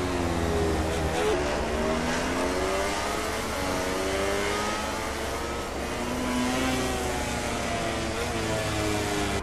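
Several MotoGP racing motorcycles' engines at high revs, overlapping. Their pitch rises and falls as they accelerate, change gear and slow.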